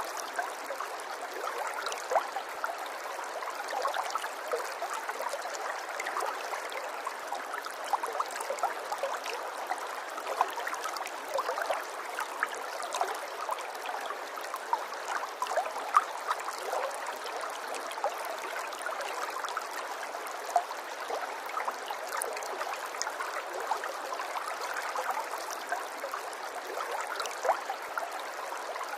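Running water in a small stream or trickle, flowing steadily with many small splashes and gurgles over an even rush.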